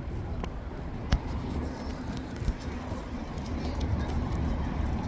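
Steady low rumble of a moving vehicle, with scattered light clicks and one sharp knock about a second in.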